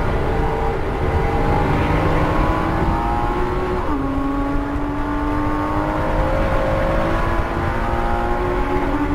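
2014 Porsche Cayman S's flat-six engine accelerating, heard from inside the cabin. The revs climb in second gear, drop sharply with an upshift about four seconds in, then climb again in third.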